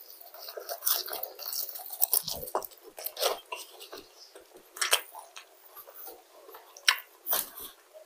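Close-miked chewing and wet mouth sounds of a person eating, with irregular sharp clicks scattered through.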